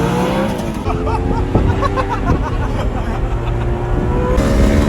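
A sports car engine accelerating. Its pitch climbs, drops sharply at a gear change just under a second in, holds, then climbs again near the end.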